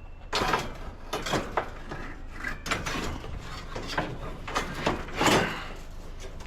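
Metal scrap being handled and loaded: an irregular run of clanks, rattles and scrapes, the loudest about five seconds in.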